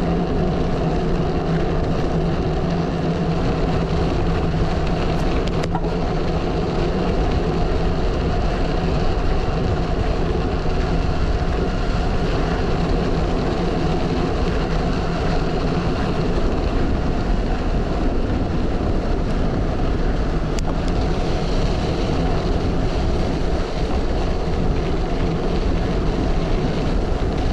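Wind rushing over the microphone of a gravel bike ridden fast on a dirt road, with the steady hum of its tyres rolling on the dirt.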